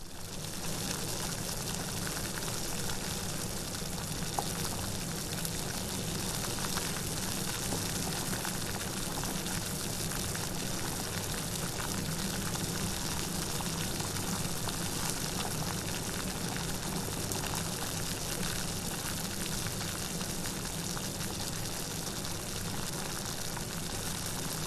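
Steady rain falling, an even hiss of many drops without let-up and without thunder.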